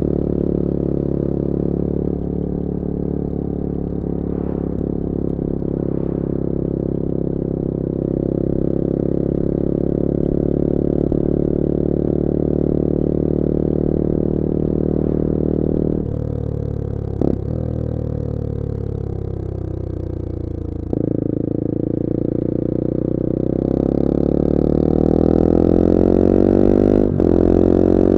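The CF Moto-built 250cc four-stroke engine of a Bullit Hero 250 motorcycle under way. It holds a steady speed, then its pitch falls as it slows off the throttle from about halfway. It changes abruptly about three quarters of the way in, then rises again as the bike accelerates near the end.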